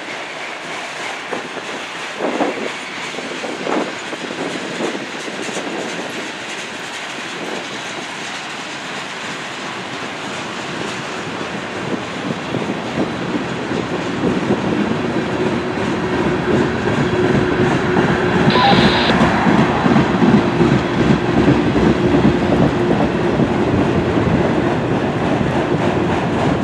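Freight train cars rolling past, steel wheels clattering over the rail joints, louder in the second half with a steady low hum.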